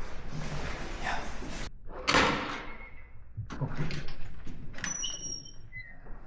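A door banging shut about two seconds in, followed by a few lighter knocks.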